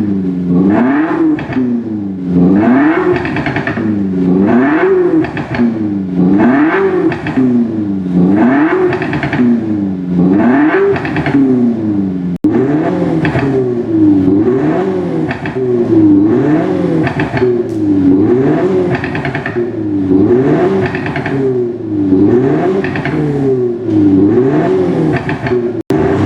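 Simulated sporty exhaust note from an active exhaust sound generator fitted to a Kia K5 diesel, revving up and down in pitch over and over, about once every second and a half. A brief cut comes about halfway through.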